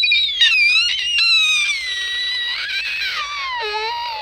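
A long, high-pitched screeching squeal that wavers in pitch, turns rough and pulsing near the end, and then drops in pitch.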